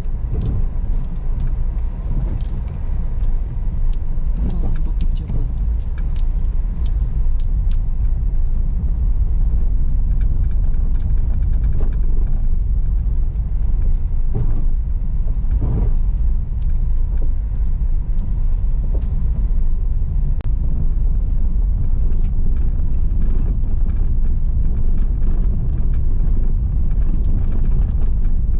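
Car driving on a rough unpaved road: a steady low rumble of engine and tyres, with scattered small knocks and rattles throughout.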